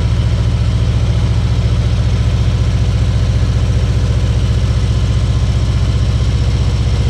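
Harley-Davidson Ultra Limited's V-twin engine running steadily with an even, low pulse.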